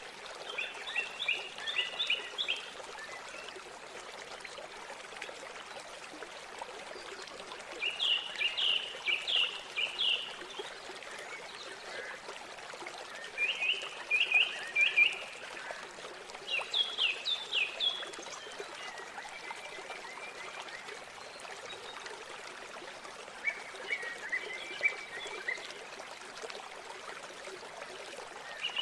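River water flowing steadily. Over it a bird sings short phrases of quick, high notes about seven times, every few seconds.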